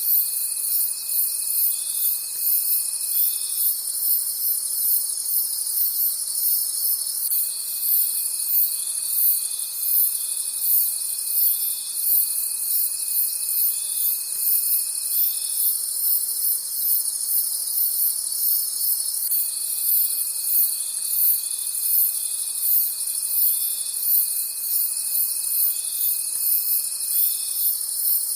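Crickets chirping in a dense night chorus, pulsing about twice a second. Under it runs a steady high-pitched trill that stops and starts again twice.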